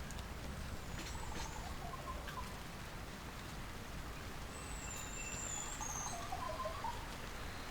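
Scattered bird calls over a steady low background rumble: short chirps about a second in, a high thin whistle a little past the middle, and a few warbling notes near the end.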